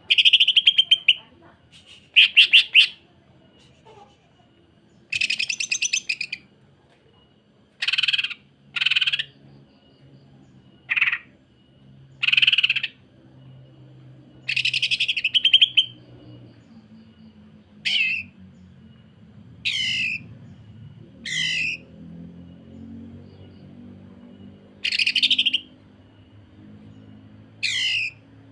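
Greater green leafbird (cucak ijo) giving harsh, fast rattling calls like a sewing machine: a string of short bursts every second or two, several of the later ones sliding downward in pitch.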